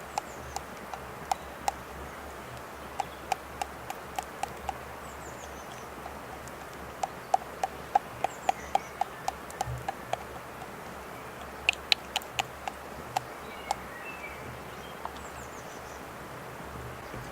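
Runs of sharp knocks on a hard surface, about three a second, coming in three bursts. Faint bird chirps sound over a steady background hiss.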